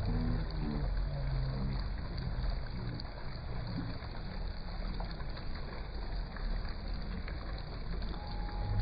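Steady rush of moving water with a low rumble, and faint voices in the first couple of seconds. A thin steady tone comes in near the end.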